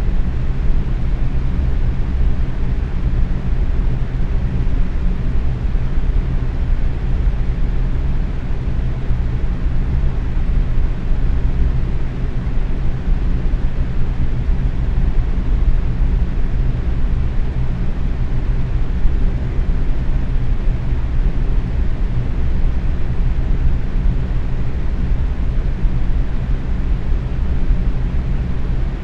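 Box fan running steadily at medium speed: an even, low-pitched whoosh of moving air with a faint motor hum underneath.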